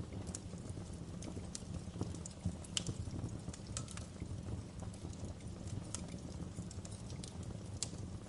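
Fire burning with a steady low rumble and scattered sharp crackles and pops, a few each second or two, one louder pop nearly three seconds in.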